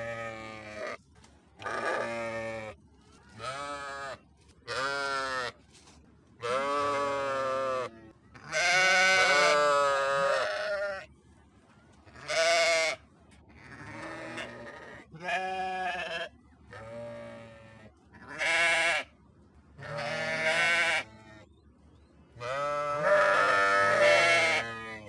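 Sheep bleating over and over: about a dozen separate wavering bleats with short pauses between them, a few of them long and loud.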